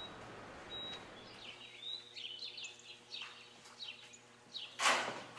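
A caged bird chirping in a series of short, quick calls. A single short high electronic beep comes just before, about a second in, and a louder burst of noise comes near the end.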